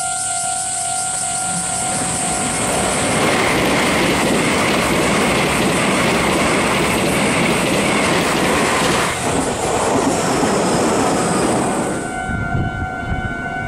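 Meitetsu 3100 series + 2200 series electric train passing at speed over a level crossing, a loud rushing noise with wheel clatter over the rail joints, while the electronic level-crossing bell rings steadily. Near the end the rushing drops away suddenly and the crossing bell rings on over a lower rumble.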